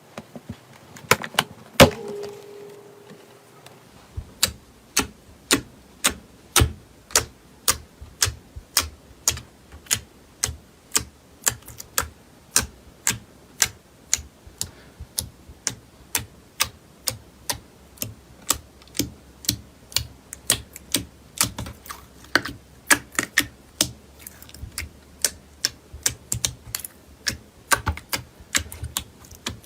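Slime being worked by hand, giving crisp clicking pops about twice a second in a steady rhythm, with a few louder knocks near the start.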